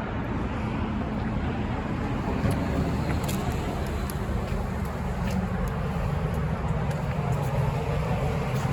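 Steady low rumble of road traffic, with a few faint high clicks.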